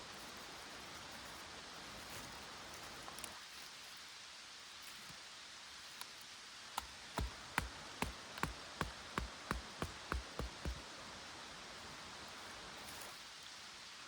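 A run of about a dozen sharp knocks in the middle, roughly three a second, over a steady hiss.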